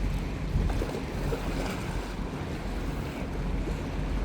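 Wind rushing on the microphone with a steady low rumble underneath.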